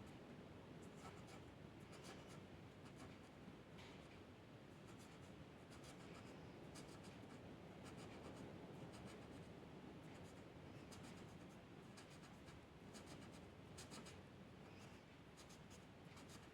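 Faint scratching of a drawing tool on paper: many short, irregular strokes.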